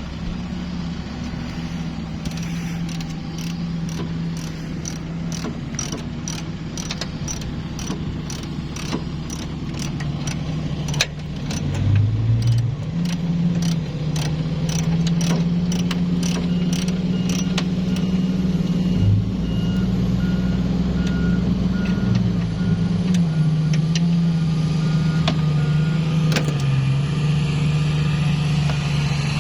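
A vehicle engine running steadily, its pitch shifting up and down a few times partway through. A run of evenly spaced sharp ticks comes in the first part, and a faint repeating beep in the second half.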